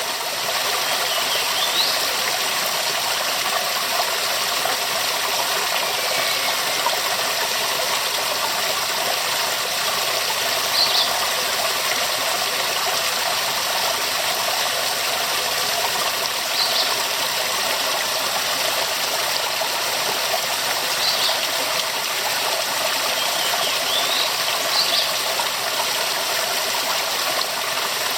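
Waterfall: a steady, full rush of falling water with no break.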